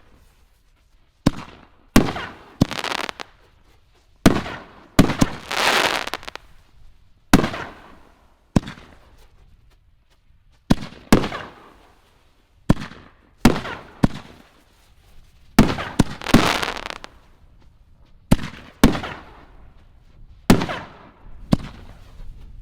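King Dragon 6-inch canister firework shells fired one after another from a mortar rack: sharp reports about every one to two seconds as shells lift off and break overhead, several trailing off in a longer hiss.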